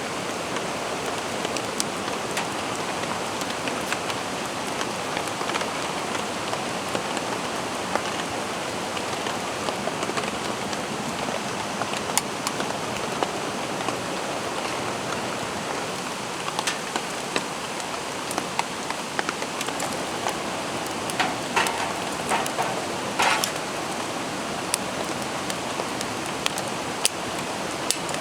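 Steady rain falling, with scattered individual drops ticking sharply on a surface and a few louder drops about three quarters of the way through.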